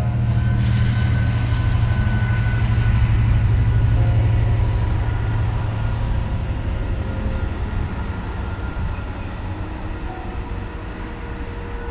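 Freight train passing on the line, a steady deep rumble that is loudest three to four seconds in and then slowly fades.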